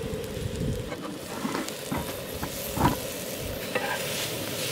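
Scrambled eggs and cheese sizzling on a hot griddle, the sizzle growing louder in the second half, with light clicks and scrapes of metal tongs against the griddle.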